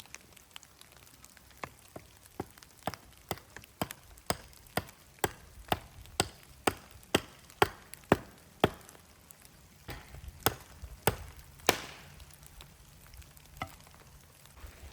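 A quick run of sharp knocks or chopping strikes, about two a second. They stop for about a second, then three harder blows follow, and one faint knock comes near the end.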